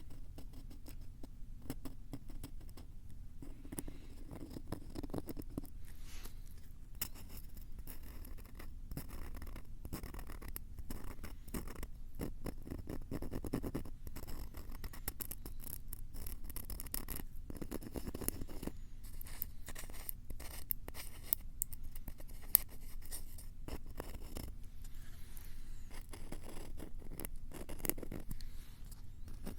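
Dense, fast scratching and scraping with many small clicks, made right at a Tascam recorder's microphones, in a harsh, close ASMR style.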